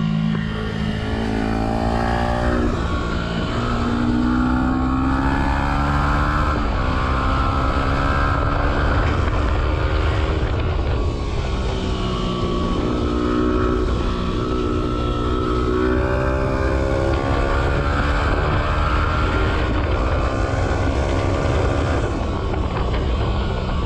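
Yamaha R125's single-cylinder four-stroke engine, breathing through a Black Widow exhaust with the dB killer removed, pulling under way: the pitch climbs as it accelerates and drops sharply at gear changes, about two and a half and seven seconds in, then rises and eases off again through the rest. Wind rumble on the microphone sits under it.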